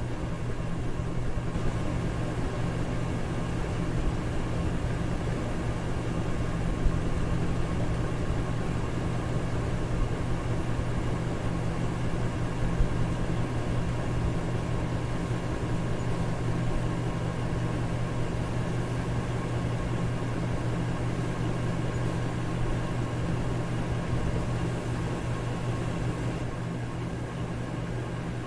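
Electric fan running steadily: a whoosh of moving air over a low motor hum, with two or three faint clicks.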